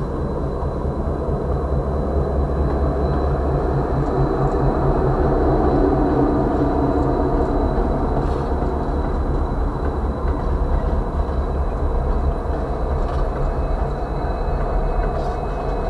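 Diesel freight locomotives approaching on the track, a steady low engine rumble that swells a little midway through.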